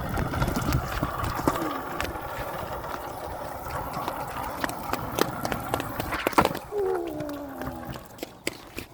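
GoTrax electric scooter being ridden over wet pavement: a steady whir with scattered rattles and knocks, a loud knock about six seconds in, then a short tone falling in pitch.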